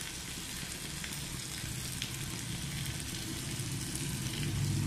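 Beef and koorkka frying on low heat in a pan, the gravy cooked off, as coconut oil is poured in: a steady sizzle that grows a little louder toward the end.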